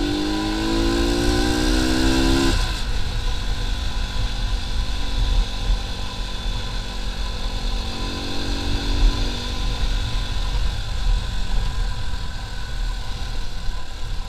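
Motorcycle engine pulling in gear with its pitch rising, then dropping away sharply about two and a half seconds in as the throttle closes. It then runs on at lower revs with a brief rise again around eight seconds, over a steady low rumble.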